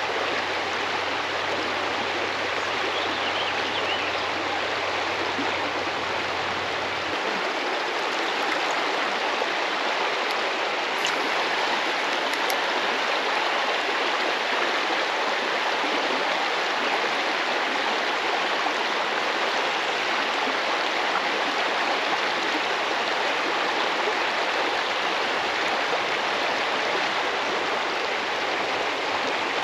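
Creek water rushing steadily over rocks, an even, continuous flow.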